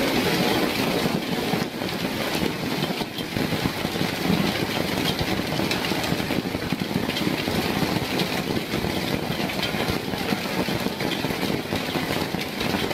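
Hailstones pelting down steadily, a dense, unbroken patter of many small impacts.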